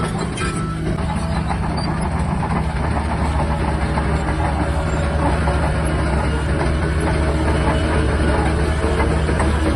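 Shantui DH17-C3 bulldozer's diesel engine running steadily, with the rattling clank of its steel tracks.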